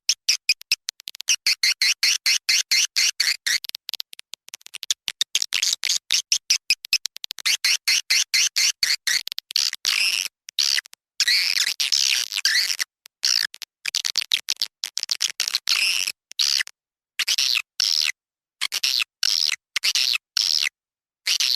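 Swiftlet call-sound recording: rapid trains of high chirps and clicks from swiftlets, dense and continuous at first, then in short bursts broken by dead-silent gaps in the second half. This is a lure sound played from swiftlet houses to draw birds in to nest.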